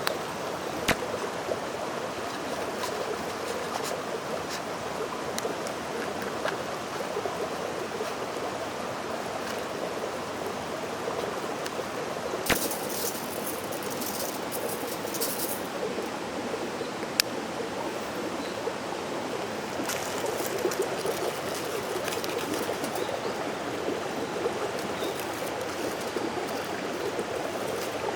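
Mountain stream flowing with a steady rushing sound, with a few sharp clicks and brief crackles over it.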